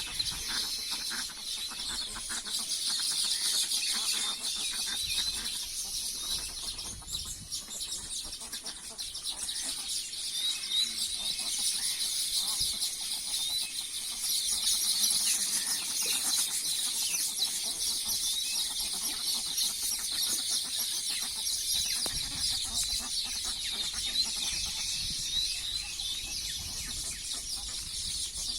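Domestic fowl calling and clucking, with some wing flapping, over a steady high-pitched insect drone.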